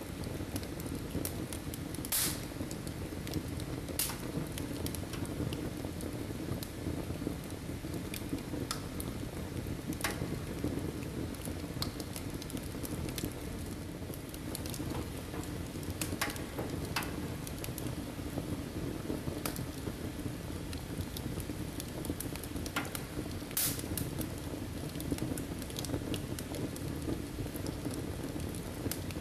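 Firewood burning in a fireplace: a steady low rush of flame with sharp crackles and pops every few seconds.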